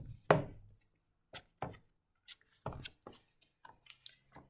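Hardback picture book being handled as a page is turned: a series of irregular light taps and clicks.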